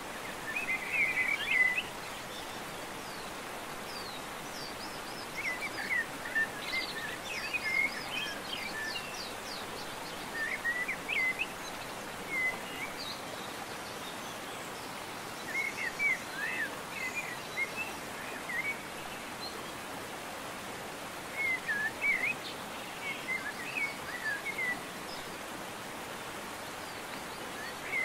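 Wild birds calling in short bursts of quick, swooping chirps a second or two long, several times, over a steady outdoor hiss.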